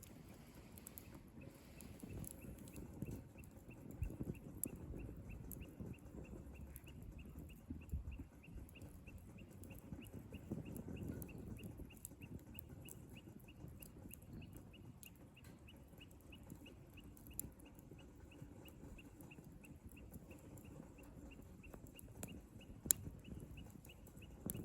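Wood fire burning with a low rushing sound and scattered sharp crackles and pops. A steady run of faint high-pitched ticks, about three a second, starts about a second in and keeps on throughout.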